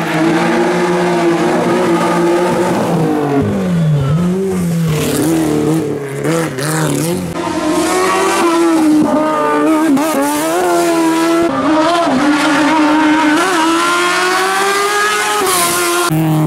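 Race car engine running hard: held at a steady pitch at first, then revs dipping and blipping, then climbing repeatedly with short drops between, as through gear changes under acceleration.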